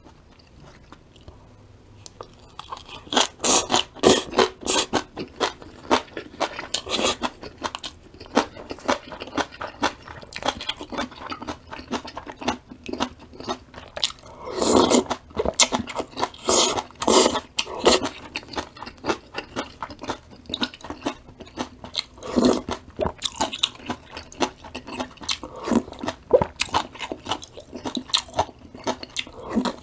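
Close-miked chewing and crunching of crisp vegetables, sweet potato stem kimchi and bean sprouts, in quick irregular crackles that begin about two and a half seconds in.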